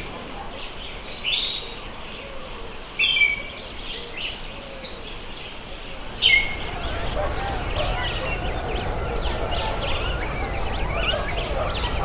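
A bird giving sharp calls that sweep down in pitch, four of them about two seconds apart. From about six seconds in, a steady outdoor background takes over, with many faint bird chirps and faint distant voices.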